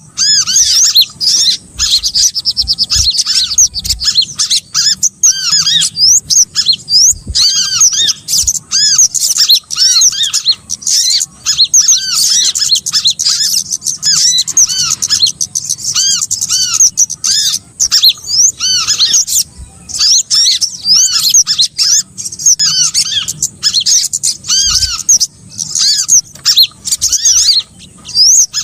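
Bird-lure recording of small songbirds calling: a dense, unbroken stream of high, short arched chirps repeated rapidly and overlapping, with only brief gaps.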